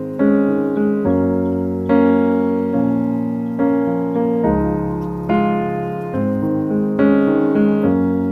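Background music: a piano playing chords and melody notes, each struck and left to fade, the harmony changing every second or so.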